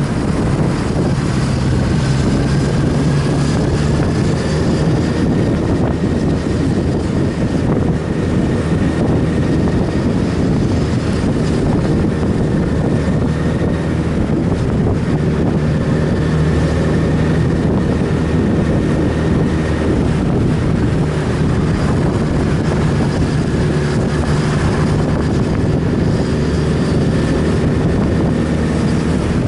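Motorcycle riding at a steady speed: the engine runs evenly under a constant rush of wind over the microphone.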